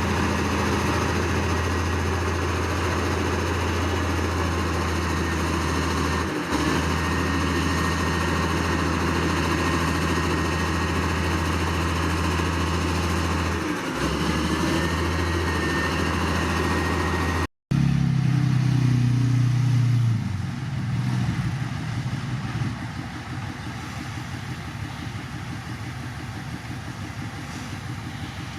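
Heavy diesel earthmoving machinery engine running steadily under load, with a faint high whine above it. The note dips briefly twice. An edit cut about 17 s in switches to another engine that eases off and quietens a few seconds later.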